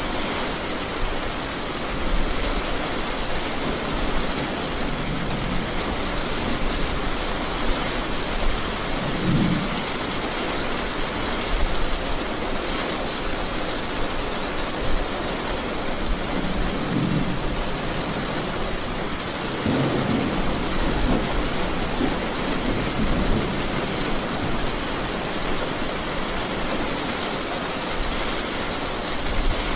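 Steady rain with low rumbles of thunder, three of them in the middle of the stretch.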